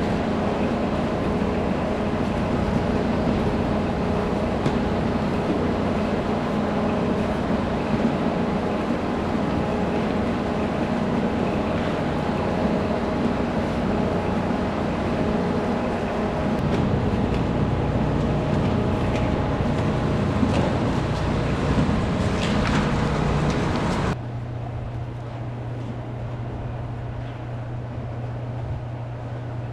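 Packing-shed machinery running steadily with a low hum and a few faint knocks. Near the end it cuts abruptly to a quieter steady hum.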